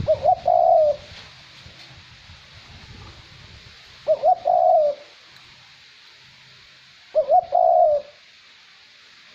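Male Cu Moi dove cooing: three short coo phrases, each under a second, starting with a quick rise, repeated about every three and a half seconds over a faint light wind.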